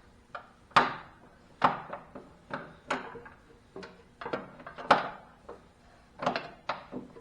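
Irregular sharp knocks and clanks of a hand wrench and socket against the mower's metal frame, a dozen or more, as it is worked onto a hard-to-reach bolt underneath.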